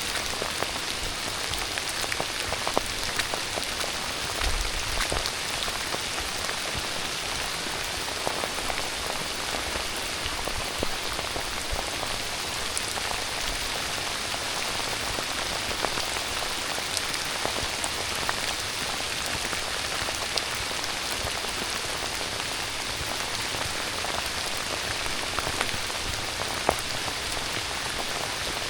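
Soaking rain falling steadily: an even, dense hiss with many individual drops ticking close by.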